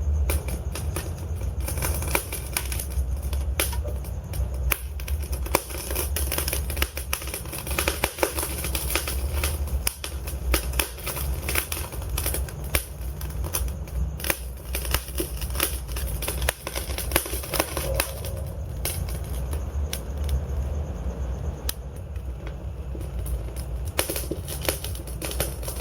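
Wood fire burning in a fireplace: logs crackling with many irregular sharp snaps and pops over a steady low rumble.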